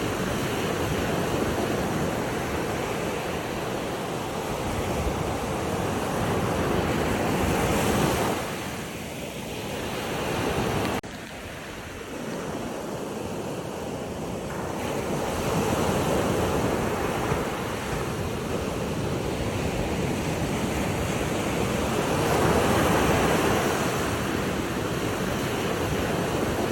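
Water rushing continuously, swelling and easing in level like surf. It quietens around eight seconds in, then drops abruptly to a lower level about eleven seconds in before building back up.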